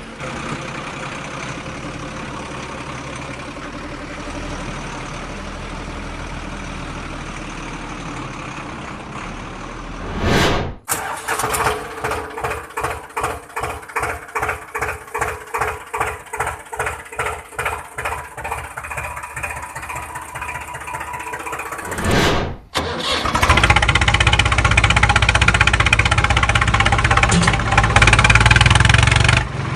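Vehicle engine sound in three parts: a steady running hum, then about ten seconds of regular chugging at about two beats a second, then a louder steady engine run from about two-thirds of the way in.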